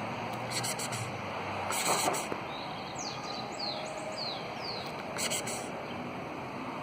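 A small bird giving a quick series of about six short, falling chirps, starting about three seconds in, over steady outdoor background noise. A few brief rustling noises come and go.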